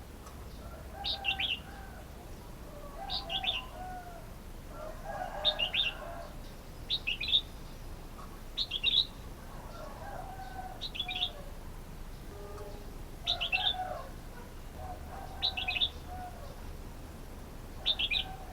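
Red-whiskered bulbul calling: short, bright chirping phrases repeated about every two seconds, nine in all, with fainter lower warbled notes alongside.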